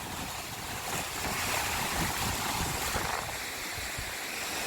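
Sea waves washing in the shallows, swelling in the first few seconds, with gusts of wind buffeting the microphone.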